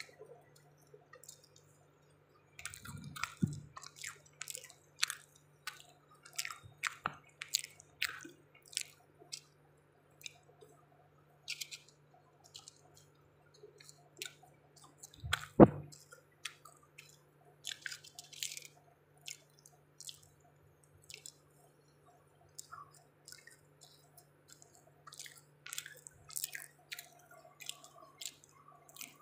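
Wet, close-up mouth sounds of someone eating soft black forest cake: irregular chewing and lip smacks, with a louder knock about halfway through and a low steady hum underneath.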